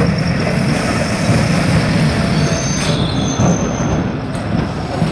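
Suburban electric multiple-unit passenger train running past close by: a steady rumble of wheels on rail, with thin high wheel squeals over it.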